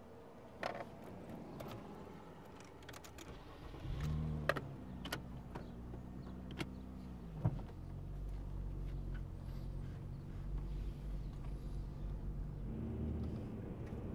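Sharp clicks and rattles inside a car, then the car's engine starts about four seconds in and runs steadily, picking up near the end as the car drives.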